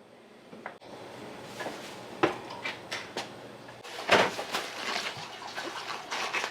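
Metal spatulas knocking and scraping on a teppan iron griddle in a short, irregular run of clacks. The sharpest knocks come about two seconds in and about four seconds in.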